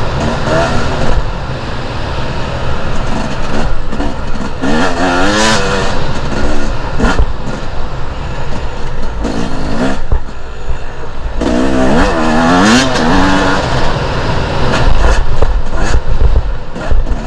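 Two-stroke enduro dirt bike engine running hard on a trail, its pitch swinging up and down as the throttle is worked, with two clear revving surges, about a quarter of the way in and again past the middle, over a constant heavy rumble.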